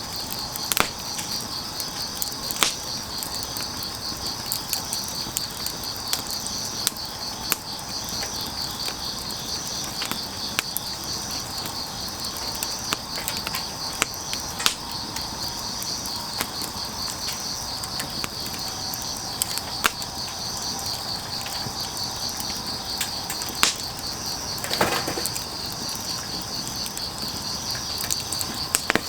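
Wood fire crackling with scattered sharp pops, over the steady pulsing chirp of crickets.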